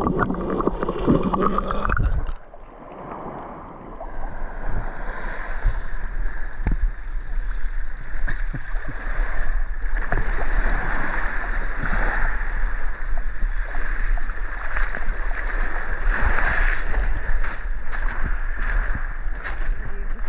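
Sea water washing and churning, with wind buffeting the microphone. The sound drops away briefly about two seconds in, then comes back steady.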